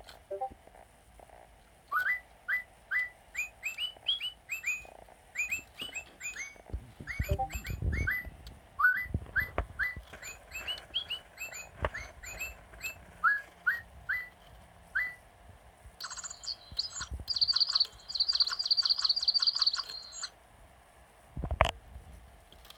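Robotic toy bird chirping: a long run of short rising chirps, then a fast high trill lasting about four seconds. A low thump comes near the end.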